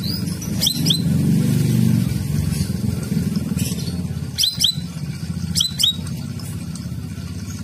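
Cucak rawis (burung bayeman) calling: three bursts of two or three short, sharply upslurred chirps, about a second in, past the middle and a second later, over a steady low hum.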